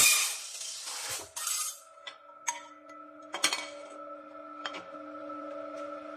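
Metal clinking and clanking in a few separate knocks, typical of cut steel pieces being handled at a cutting machine, over a faint steady hum. The noise of a cut dies away in the first second.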